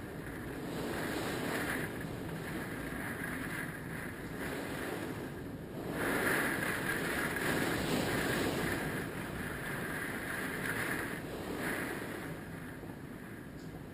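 Hurricane winds gusting, swelling and easing in waves, with the strongest gust starting about six seconds in.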